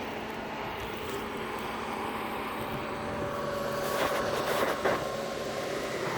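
Engine noise of a heavy vehicle, growing steadily louder as it approaches, with a few short clicks about two-thirds of the way through.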